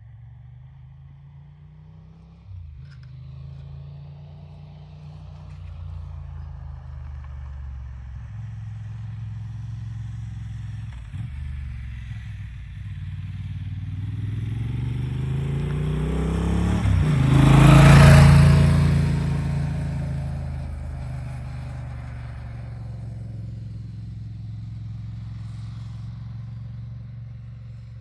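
A motorcycle engine is heard approaching and growing louder. It passes close by a little past halfway, with its pitch dropping as it goes, then fades away.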